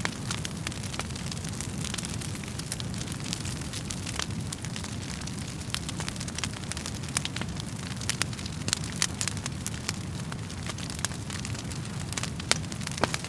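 Wood fire crackling in a fireplace: a steady low rumble of flames under frequent sharp snaps and pops from the burning logs.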